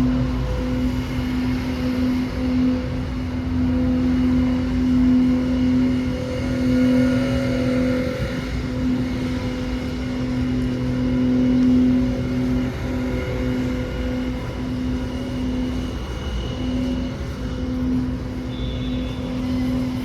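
City street traffic: a steady low mechanical hum that cuts out briefly every second or two, over a continuous rumble of vehicles.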